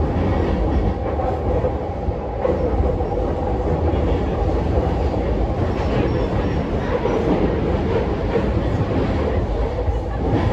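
Running noise of a JR East E233 series 0 electric commuter train, heard from inside the passenger car: a steady rumble of wheels on rail with a constant hum over it as the train cruises.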